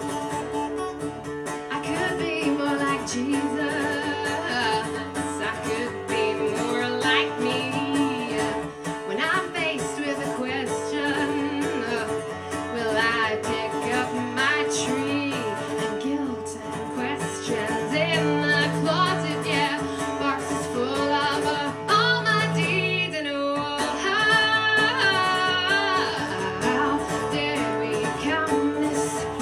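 A woman singing over acoustic guitar: a live acoustic folk song, her voice carried over steady ringing guitar chords.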